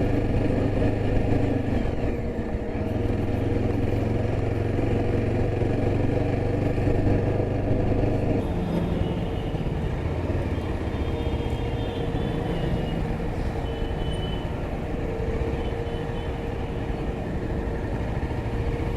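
Yezdi Adventure motorcycle's single-cylinder engine running steadily while being ridden; its note changes about eight seconds in, as in a change of speed or gear.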